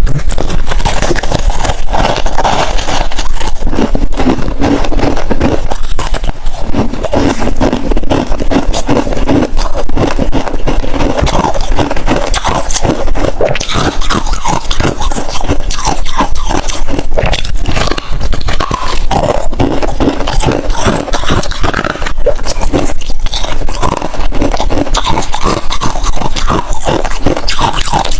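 Close-miked biting and chewing of hard freezer ice, a steady run of loud, dense crunches and crackles.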